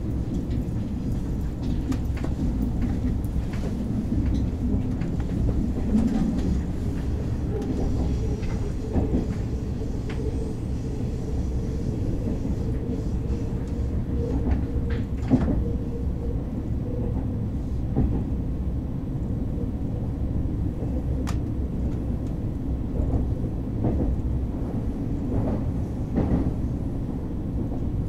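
KTX high-speed train running, heard from inside the passenger car: a steady low rumble of wheels on track, with scattered light clicks and knocks and a faint steady whine for several seconds in the middle.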